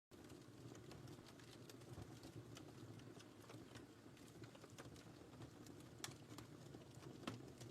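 Wood fire in a fireplace crackling faintly: a steady low hiss of flames with scattered sharp pops and ticks, two louder ones near the end.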